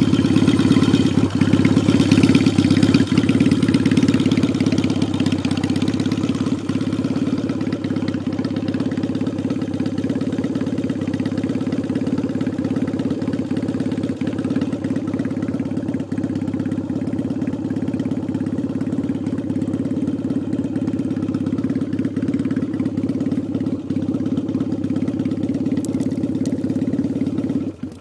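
Yamaha XS650 air-cooled parallel-twin motorcycle engine running steadily while riding, loud and unbroken.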